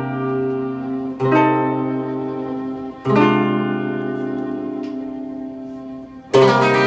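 Acoustic guitar strumming slow chords, one strum about every two seconds, each left to ring out: an instrumental outro after the last sung line.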